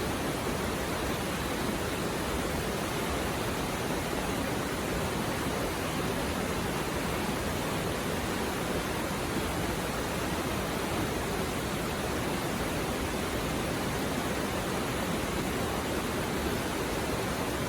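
Mountain river stream flowing over rocks: a steady, even rush of water.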